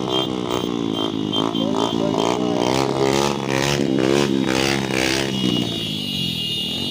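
Motorcycle engine running on the move, its pitch wavering up and down repeatedly before settling steadier about five seconds in.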